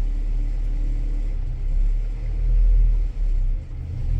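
Old Ford tractor engine running with a steady low rumble that swells and dips a little.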